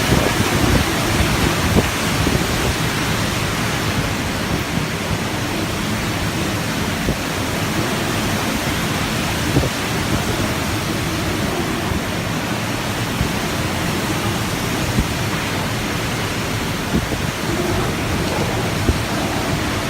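Typhoon wind and heavy rain: a loud, steady rush of wind-driven rain, with gusts buffeting the microphone in scattered low thumps.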